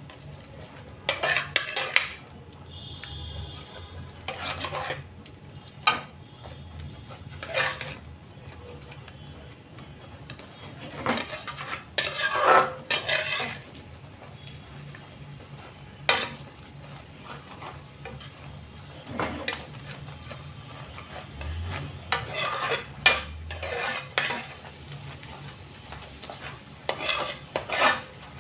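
A metal spoon scraping and clinking against a dish in irregular strokes as boiled potatoes are mashed and mixed with butter, salt and black pepper.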